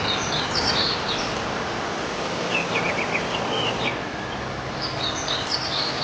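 Steady rain hiss with birds chirping in three short bursts: one at the start, one in the middle, one near the end.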